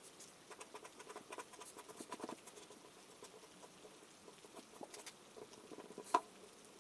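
Faint rain pattering: scattered, irregular drops ticking, with one sharper drop about six seconds in.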